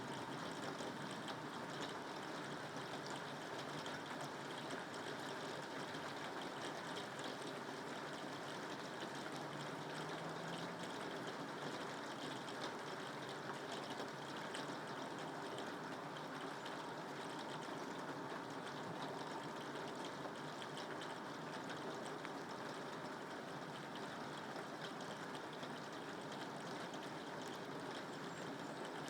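Rain falling steadily, an even hiss of drops that holds at one level throughout.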